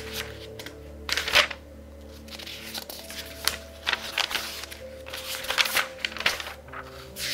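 Pages of a very thick book turned quickly, each turn a brief papery rustle and flip, the loudest about a second in, over soft background music.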